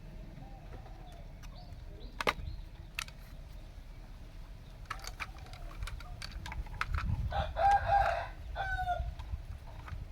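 A rooster crowing once in the second half, with a short falling call just after. Several sharp clicks or knocks come earlier, the loudest about two seconds in, over a low rumble.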